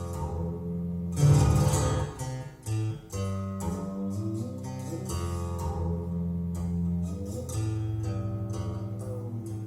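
Solo plucked-string music in the traditional Chinese style: sustained plucked notes, with one loud, rapid sweep across the strings about a second in.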